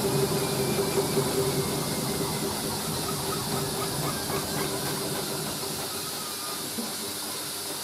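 Hoover A3060 washing machine running down at the end of a spin: a steady motor hum and a rushing drum noise that slowly fade.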